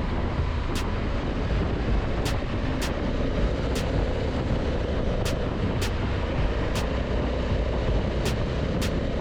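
Steady vehicle rumble with a heavy low end, overlaid by faint high ticks repeating about every three-quarters of a second.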